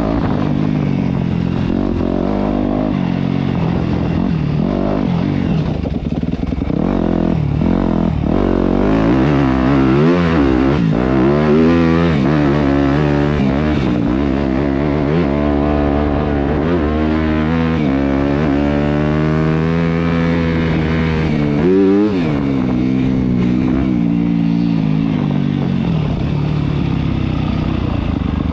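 Yamaha YZ250F four-stroke single-cylinder dirt bike engine being ridden hard, its pitch rising and falling again and again as the rider works the throttle and gears.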